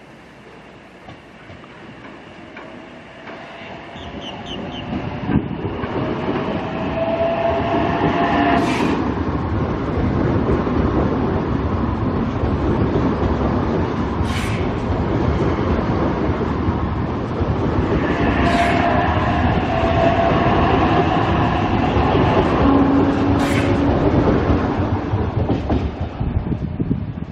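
Passenger train running on the line, its noise building over the first several seconds and then holding steady, with a few sharp clicks from the wheels over the rails.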